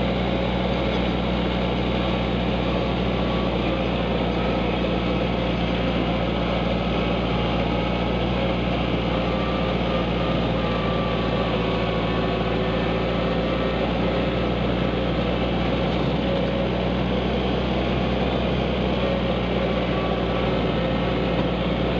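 Kubota tractor engine running steadily as the tractor drives along.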